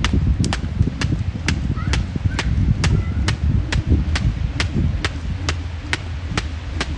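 A 1 lb weighted jump rope slapping the ground in a steady skipping rhythm, about two strikes a second, with wind rumbling on the microphone.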